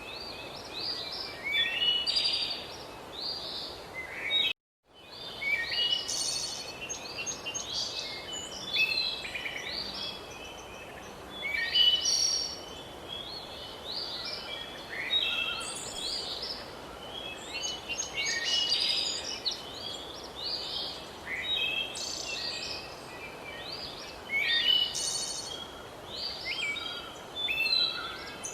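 Several songbirds singing and chirping over a steady background hiss. The sound cuts out completely for a split second about four and a half seconds in.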